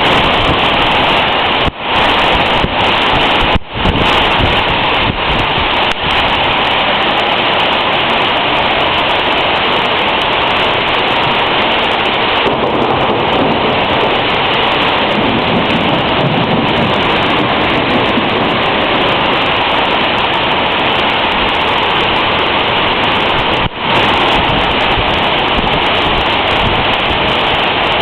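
Torrential rain pouring down steadily, a loud dense hiss that cuts out briefly a few times.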